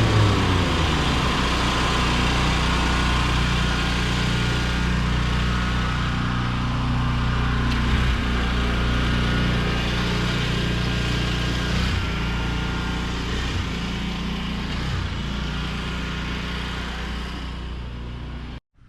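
Mini skid steer's engine running steadily under work, its note dropping just at the start. The sound fades slightly over the last few seconds and then cuts off abruptly near the end.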